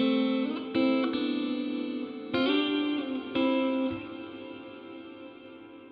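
Electric guitar chords played through a Donner Yellow Fall II pedal's hall reverb with the decay turned up. Chords are struck about a second in, at about two and a half seconds and at about three and a half seconds, then the notes hang in a long, slowly fading reverb tail.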